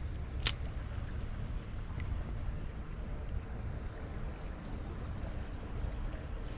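Steady high-pitched insect chorus, with one sharp click about half a second in.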